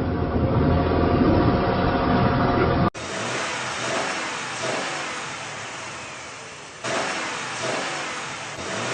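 Car engine and road noise, with a hard cut about three seconds in to a quieter stretch of road noise that slowly fades, then steps up again near the end.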